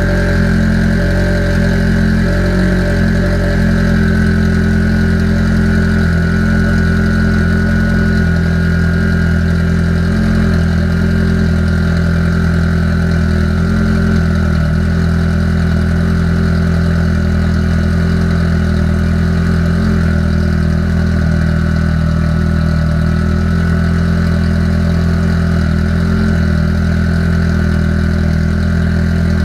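Car engine idling steadily while the cooling system is bled of air after a radiator replacement, with a thin steady whine above the engine note.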